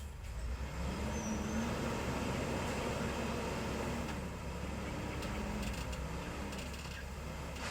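Heavy road machinery engine running, getting louder about half a second in and then holding steady.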